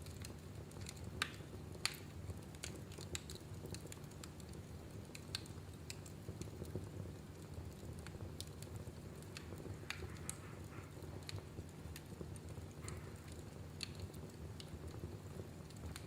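Wood fire in a fireplace crackling: irregular sharp pops and snaps over a low steady rumble of flames, with two louder pops about one and two seconds in.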